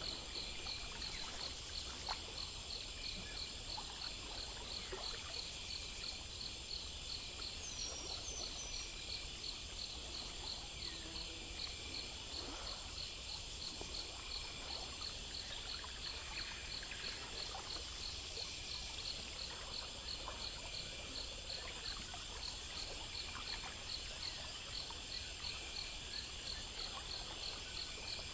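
Crickets and other insects chirping in steady, evenly repeating pulses, over a faint trickle of running water.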